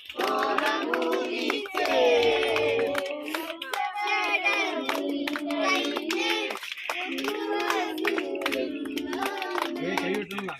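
A group of people singing together unaccompanied while clapping their hands along with the song.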